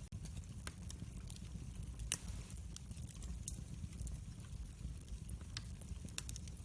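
Campfire crackling with scattered small pops and one louder pop about two seconds in, over a low steady rumble of the flames.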